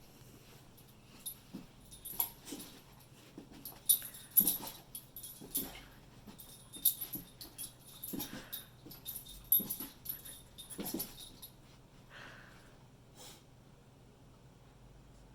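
A beagle puppy's short nasal sounds and soft whimpers as it begs for treats, mixed with a run of sharp clicks and rustles that stop about eleven seconds in.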